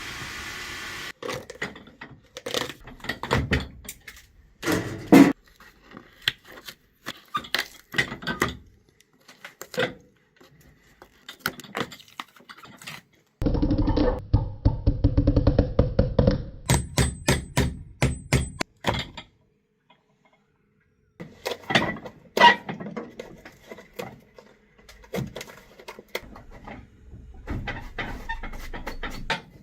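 Shoe-repair work sounds in quick cuts: short knocks, taps and scraping, with a louder, steadier stretch of rubbing or machine noise about halfway through that cuts off suddenly.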